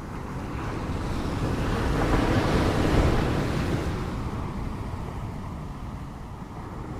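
Ocean waves: one wave swells, breaks with a rush of surf about three seconds in, and washes back.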